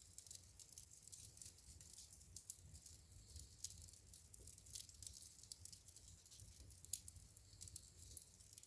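Wood fire crackling in a fireplace, heard faintly: a steady scatter of small irregular snaps and pops, with a couple of sharper pops standing out.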